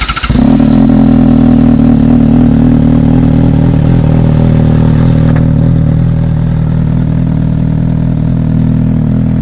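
Inline-four sport motorcycle engine comes in suddenly about a third of a second in and runs steadily at an even, low speed without revving.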